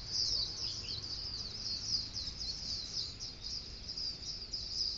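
Birds chirping steadily: a rapid, unbroken run of short high chirps, several a second.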